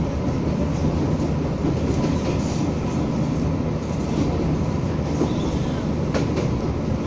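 Materfer diesel railcar running along the line, heard from on board: a steady rumble, with a few sharp clicks of the wheels over rail joints, one clear one about six seconds in.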